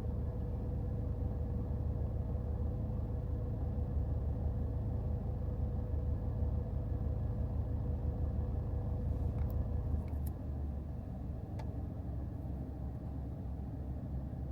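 A car driving: a steady low rumble of engine and road noise with a faint steady hum. The rumble eases slightly about ten seconds in, and there are a few faint clicks.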